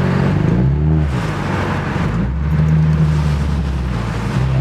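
Car engine under acceleration, heard from inside a car, its pitch holding steady, then dipping and climbing again about a second in and once more near the end, over steady road noise.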